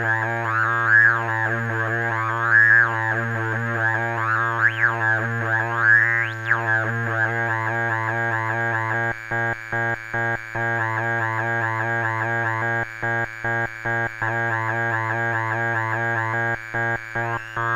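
Weird Sound Generator DIY synthesizer playing a steady buzzy drone pitched around 100 Hz, with wavering, swooping overtones over the first half. From about nine seconds in, the drone is chopped into a stuttering rhythm of short dropouts.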